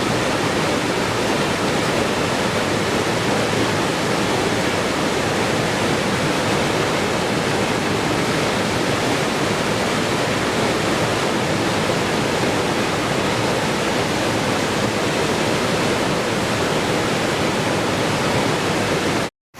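Steady, even rushing of falling water, like a waterfall, with no change in level. Near the end it cuts out to silence for a split second.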